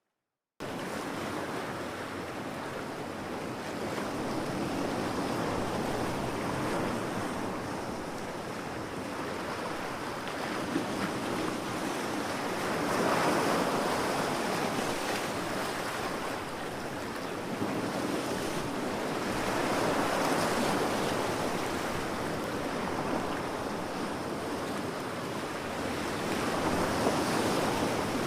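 Ocean surf on a beach: waves breaking and washing in, swelling and easing in slow surges every six or seven seconds. The sound cuts in abruptly about half a second in, after a moment of silence.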